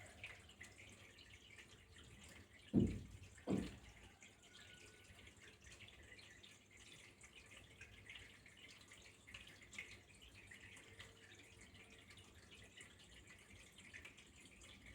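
Faint running water trickling and dripping steadily, with two dull thumps a little under a second apart about three seconds in.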